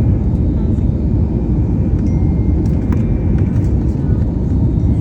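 Steady low rumbling roar of an airliner during landing, with a few faint clicks and thin high tones over it.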